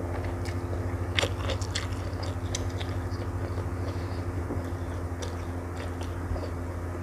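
Close-miked chewing of a mouthful of rice, stir-fried water spinach and omelette, with many small wet mouth clicks and a sharper click about a second in, over a steady low hum.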